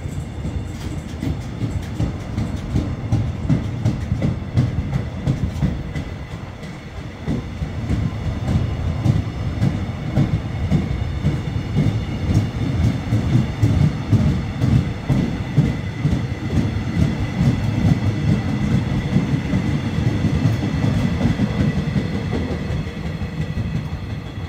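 KORAIL E-Train passenger cars rolling past close by, wheels clicking rhythmically over rail joints above a low rumble, with a thin steady high whine. The sound fades near the end as the last car moves away.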